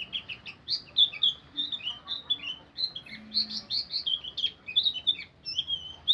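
Pleci (white-eye) singing in the rapid 'ngeriwik' style: an unbroken stream of short, high, falling chirps and twitters, several a second.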